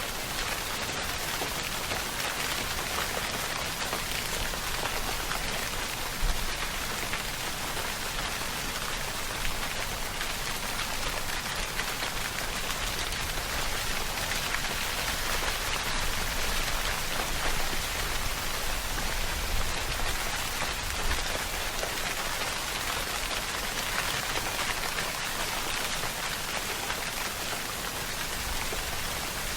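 Steady rainfall: a dense, even hiss of raindrops, with a few sharper drop hits standing out now and then.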